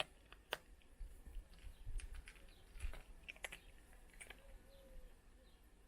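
Cats crunching dry food: sparse, crisp crunches and clicks at irregular intervals.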